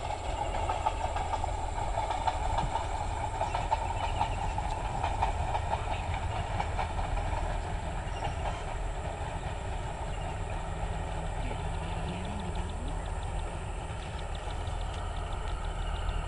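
Diesel multiple-unit passenger train running slowly past, a steady rumble of wheels on rail with light clicking over the rail joints.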